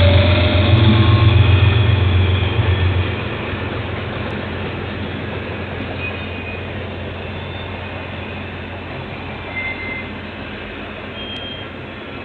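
Train passing a trackside webcam: a heavy low rumble for about three seconds, then the steady rolling noise of the train, slowly fading as it moves away.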